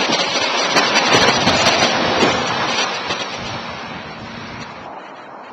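A vehicle passing on a snowy road: a loud rush of tyre and road noise that swells in the first two seconds and then fades away.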